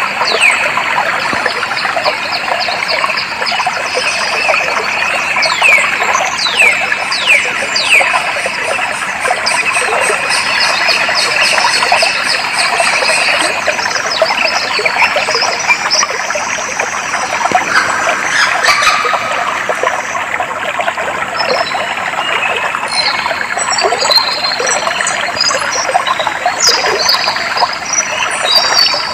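Clear stream flowing steadily, with wild birds calling over it: a few quick falling whistles about six seconds in, and a run of short, high chirps in the last several seconds.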